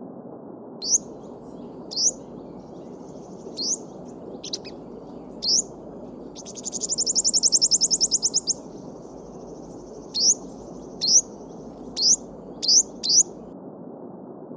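A small songbird chirping: short sharp notes about once a second, with a fast trill of roughly a dozen notes a second lasting about two seconds in the middle. Under it a babbling stream rushes steadily.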